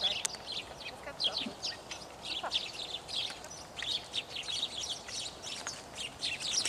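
Many small birds chirping and twittering, a dense chatter of short high chirps all through.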